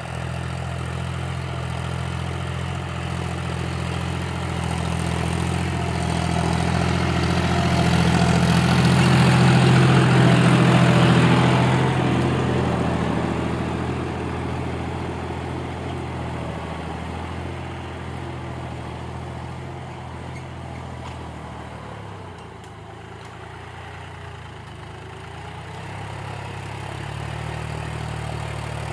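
John Deere tractor's diesel engine running under load while pulling an 11-tine cultivator, steady in note; it grows louder to a peak about ten seconds in, fades down around twenty-two seconds, then rises again near the end.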